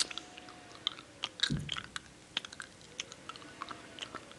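A person chewing a soft, chewy blackberry fruit candy, with irregular wet smacking clicks from the mouth.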